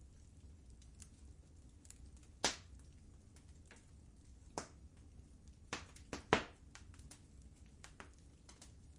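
Wood fire burning in a fireplace: soft low rumble of the flames with scattered crackles and sharp pops of burning wood, the loudest pops about two and a half seconds in and a cluster of them a little past the middle.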